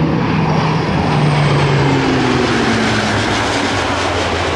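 Lockheed C-130J-30 Super Hercules flying past with its four turboprop engines and six-bladed propellers running loud. The propeller tone drops in pitch as it goes by.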